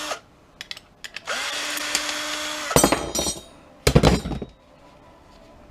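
Power drill/driver backing out a screw. Its motor spins up and holds a steady whine for about a second and a half, then stops. Two loud clattering knocks follow, about three and four seconds in.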